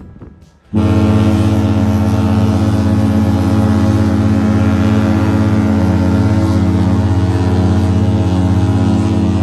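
A loud, steady, low drone with many overtones from the cruise ship, cutting in abruptly about a second in and holding unchanged.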